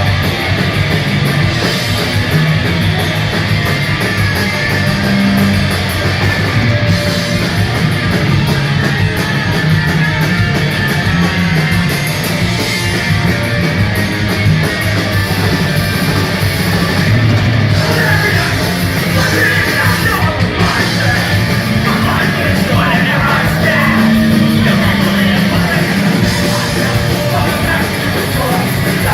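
Punk rock band playing live, with loud electric guitars and drums and shouted vocals that stand out most in the second half.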